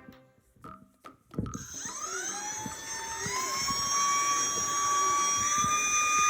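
Suitu cordless rechargeable vacuum cleaner switched on, its motor spinning up with a rising whine about a second and a half in, then running steadily with a high whine.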